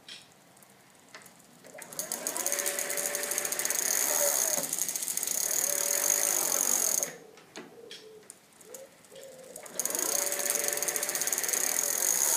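Pedelec (e-bike) motor running in two spells, with a whine that rises, holds steady and drops away, over a mechanical gear noise. It starts about two seconds in, stops at about seven seconds, and starts again near ten seconds.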